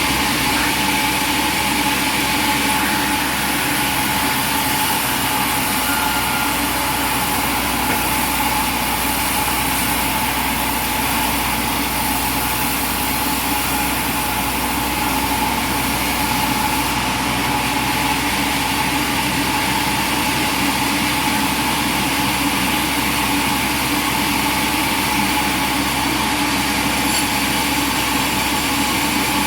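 Sawmill machinery running steadily, an engine-like drone with a constant hum and no change in load.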